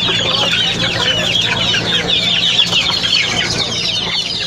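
Chickens clucking and chirping, many short calls overlapping without a break, over a steady low hum.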